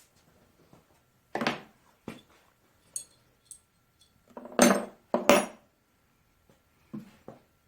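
Hammer striking a cape chisel, metal on metal, as it cuts a seized, broken-off brass pipe thread out of a cast-iron engine hopper drain. The blows are irregular taps, the two hardest close together near the middle.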